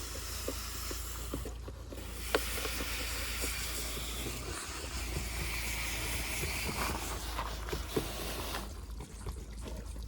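Water spraying in a steady hiss, breaking off briefly about a second and a half in and stopping near the end, with a few light knocks.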